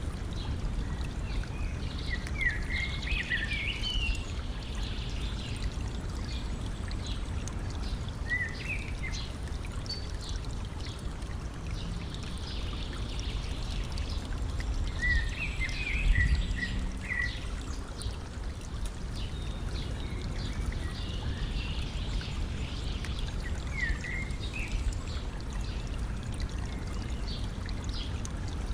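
A stream running and trickling steadily, with a small songbird singing short twittering phrases every few seconds. The water swells briefly louder about halfway through.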